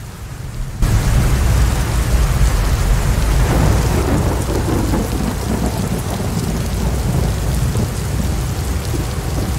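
Heavy rain pouring with a deep, continuous rumble, cutting in suddenly about a second in.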